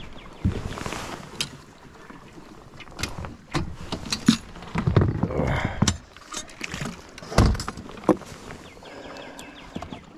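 Irregular knocks and clunks mixed with rustling, the loudest a heavy low thump about seven and a half seconds in.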